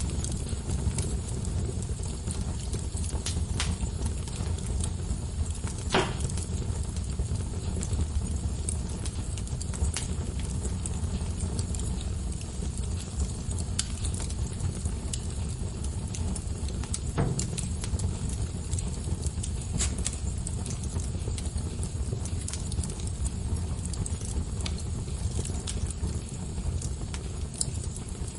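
Wood fire burning in a fireplace: a steady low rush of flames with scattered crackles and pops, a few sharper snaps about six seconds in and again near seventeen seconds.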